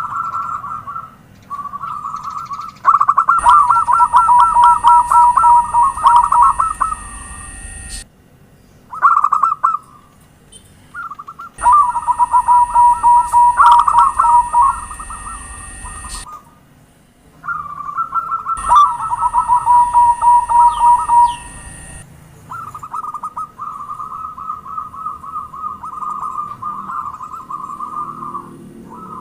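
Zebra doves (perkutut) cooing: repeated phrases of fast, rattling coos at around one pitch, each a few seconds long, with short gaps between.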